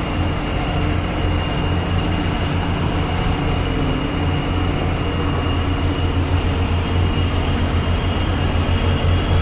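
Heavy diesel truck engine running steadily: a low drone with a thin, steady high whine above it.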